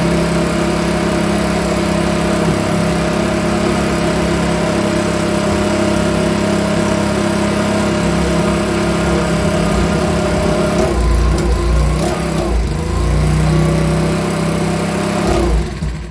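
Makita BHX2500 24.5 cc four-stroke leaf blower engine running on a test run after repair. It runs steadily, then about eleven seconds in its pitch wavers and shifts for a few seconds, and the sound cuts off suddenly near the end.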